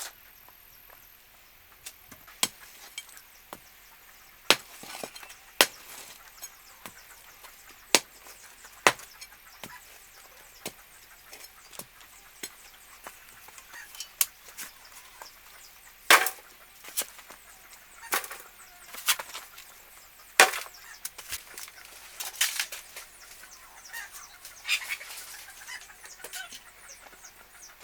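A run of irregular sharp knocks and taps, spaced unevenly, with a few louder strikes past the middle.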